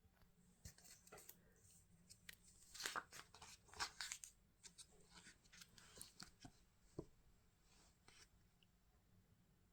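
Faint, irregular crinkling and tearing of packaging being handled and opened, loudest a few seconds in and dying away near the end.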